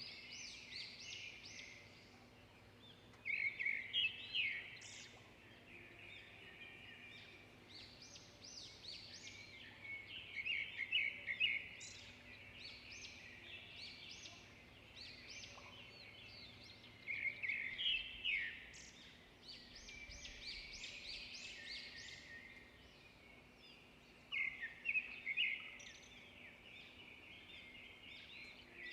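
Songbirds singing: a steady stream of rapid, high chirps, broken about every six to seven seconds by a louder burst of quick, trilling song.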